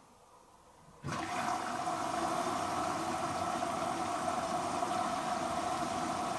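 Water rushing into a Hoover H-Wash & Dry 500 washer dryer through its inlet valve, starting suddenly about a second in and running steadily as the drum fills for the pre-wash.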